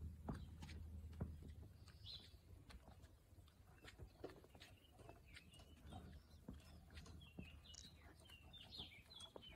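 Faint bird chirps, once about two seconds in and a run of them near the end, over soft scattered footsteps on paving.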